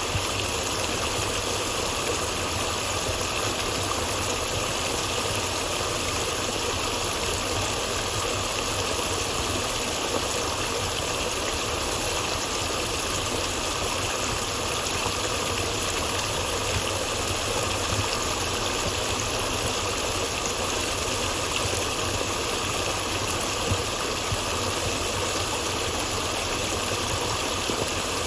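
Steady rushing water of a stream, an even noise that never breaks, with a low rumble underneath.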